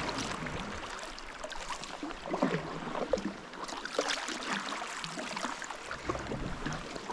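Seawater lapping and splashing around a sea kayak, with small irregular splashes and drips throughout.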